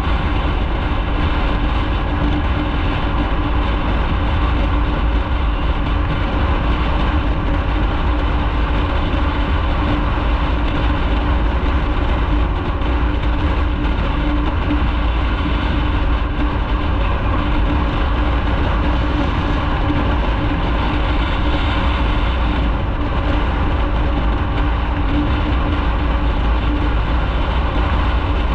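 Motorcycle ridden at a steady speed: an even engine drone under heavy wind and road noise.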